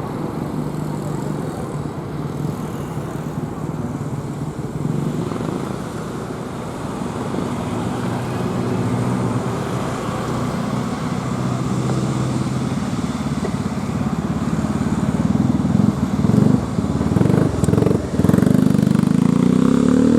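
An engine running steadily with a low hum, getting louder over the last few seconds.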